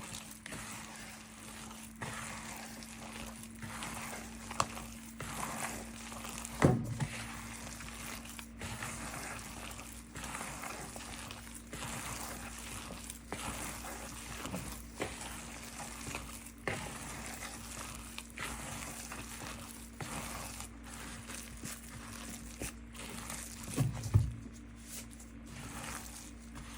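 Hands mixing and kneading seasoned chicken mince with flour in a bowl: irregular soft squishing and crinkling, with two louder knocks, one about seven seconds in and one near the end. A steady low hum runs underneath.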